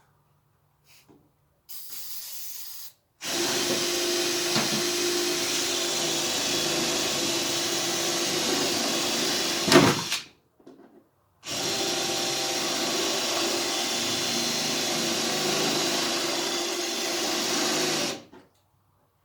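Electric drill running in two long steady bursts of about seven seconds each, drilling out a stubborn spot weld on a steel body bracket, with a short lighter burst before them. A sharp crack comes just before the first burst ends.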